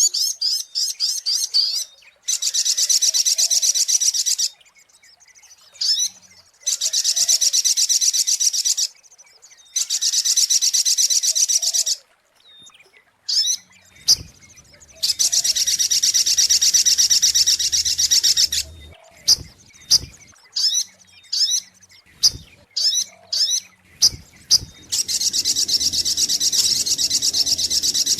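Sogok ontong (little spiderhunter) calling: long, rapid, high-pitched trills lasting two to four seconds each, alternating with short, sharp single notes. It is a recorded call played as a bird lure.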